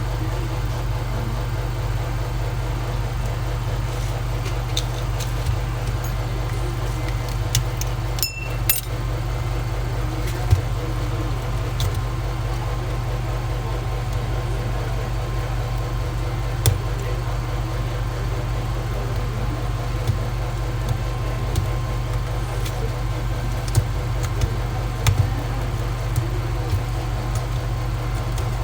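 Steady low machine hum in a phone repair shop, with small scattered clicks and taps of work on the phone's glass back.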